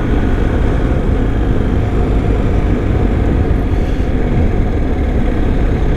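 Adventure motorcycle being ridden along at a steady pace: a continuous low engine drone mixed with wind rush.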